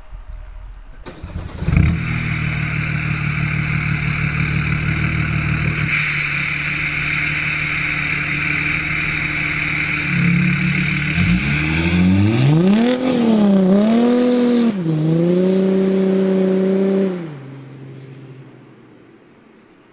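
Audi A7 3.0 TDI V6 turbodiesel with a straight-pipe exhaust and no muffler. It starts about two seconds in and idles steadily. From about ten seconds in it is revved several times, the pitch rising and falling. Near the end it drops off sharply and fades away.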